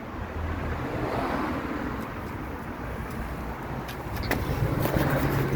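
Road traffic passing, a steady low rumble, with a few sharp clicks about four seconds in.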